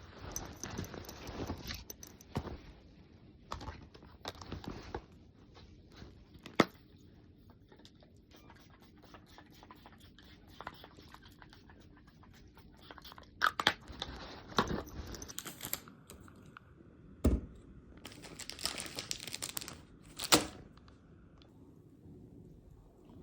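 Crinkling and tearing of handled material, with rustling and several sharp knocks or clicks.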